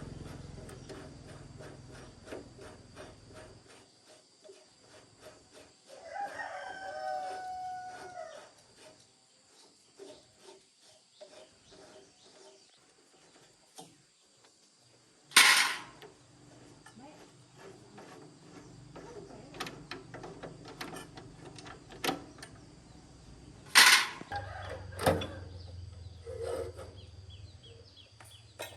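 A rooster crows once, a single drawn-out call of about two seconds, against a background of frequent light clicks. Three loud, sharp knocks stand out, one near the middle and two close together near the end.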